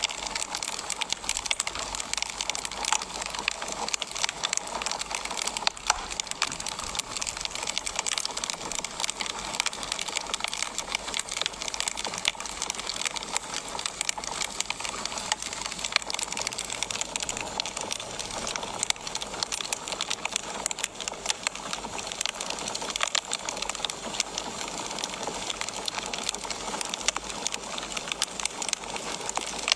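Wood fire crackling in a fireplace: a continuous hiss with frequent, irregular pops and snaps.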